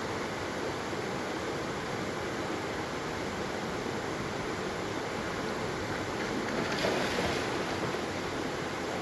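Waterfall rushing steadily, an even wash of falling water with a brief slightly louder surge about seven seconds in.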